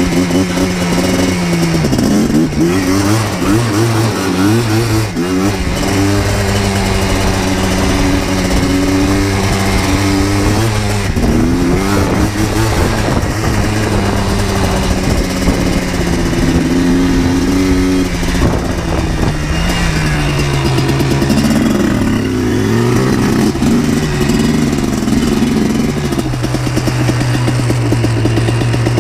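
Single-cylinder two-stroke engine of a 2000 Yamaha Blaster 200 ATV under way, its pitch climbing and dropping again and again as it accelerates and shifts through the gears. It settles to a lower, steady note near the end.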